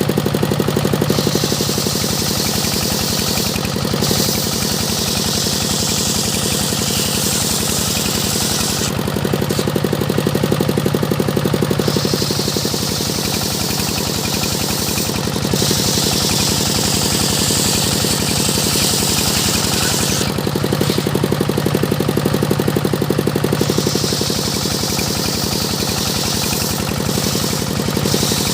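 Engine-driven circular sawmill running steadily with a throbbing drone, its blade cutting teak in long passes of high hiss that break off briefly every few seconds while the engine hum comes forward.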